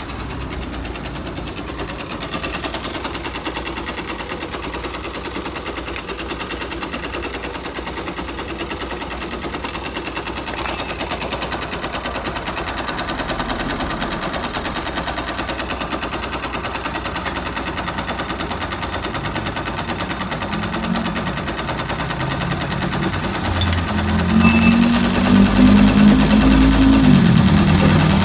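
Yamaha YBR 125's single-cylinder four-stroke engine running with a rapid, dry knocking clatter. Near the end a rising, then falling note joins and it gets louder. The mechanic suspects the engine ran without oil and has started to knock ('canecar').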